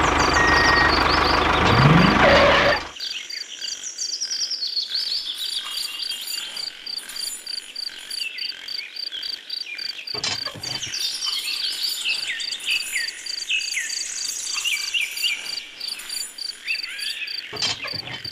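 A tractor engine running, with a short rise in pitch, cuts off abruptly about three seconds in. Then birds chirping over a steady pulsing insect trill, with two brief metal chain rattles.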